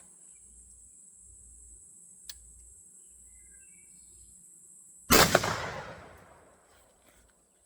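A single shot from an old Savage 20-gauge shotgun about five seconds in, sudden and loud, its echo dying away over about a second and a half.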